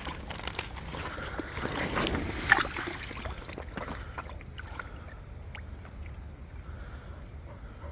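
Shallow creek water splashing and sloshing for the first three seconds or so, with one sharp click about two and a half seconds in, then settling to a quieter steady wash of running water.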